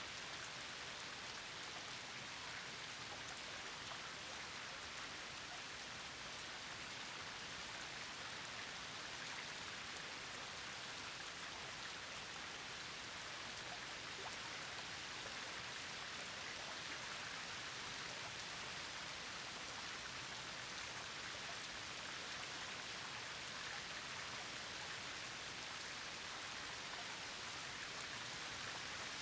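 Steady rain falling, with many individual drops heard striking a surface.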